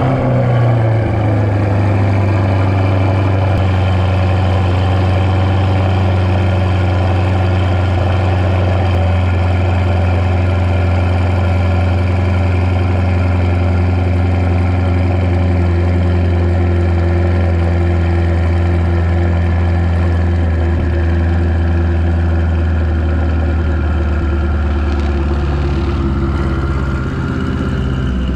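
Twin-turbo C8 Corvette V8 idling steadily through a custom turbo-back exhaust just after start-up. The idle eases slightly lower near the end.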